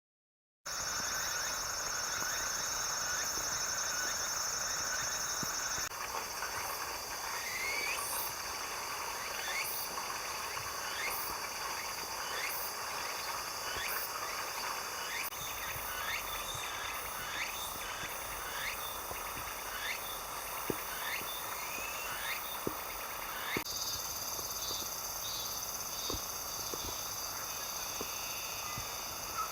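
Rural nature ambience: a steady high-pitched insect trill at first, then a series of short rising chirping calls about once a second over a background hum of insects, with a few faint clicks. The background changes abruptly twice.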